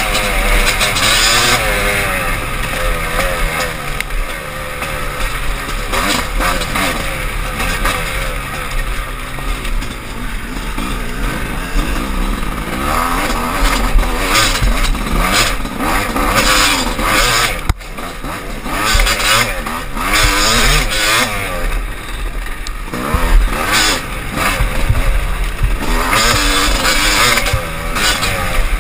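Dirt bike engine heard from the rider's helmet camera, revving up and down through the gears as it is ridden over rough, muddy ground.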